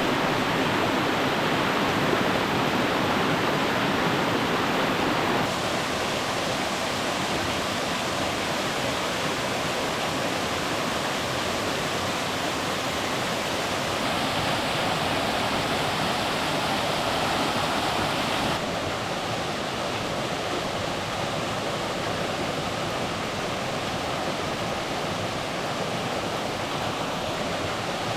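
Steady rush of creek water running over falls and cascades, with no words; its tone shifts abruptly twice, about five seconds in and again after about eighteen seconds.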